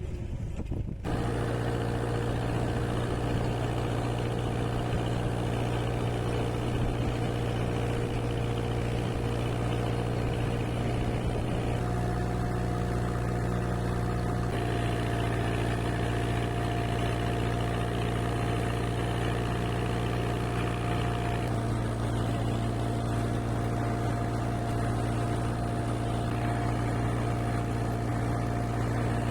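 Tractor engine running at a steady speed, coming in about a second in, with a faint steady whine joining after about twelve seconds.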